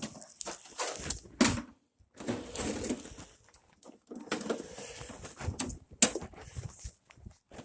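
Irregular clicks, knocks and rustling of hands working with gear.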